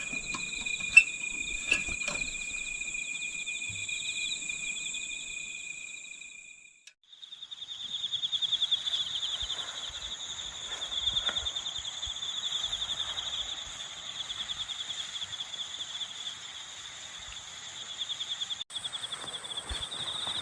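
Chorus of insects trilling steadily in several overlapping high, finely pulsing trills. Two sharp clicks come about a second in, and the chorus drops out briefly about seven seconds in before resuming.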